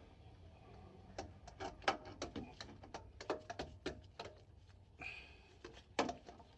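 Light, irregular clicks and knocks of hand tools and metal parts being handled during a starter motor job, several a second at times, with a brief faint rustle about five seconds in.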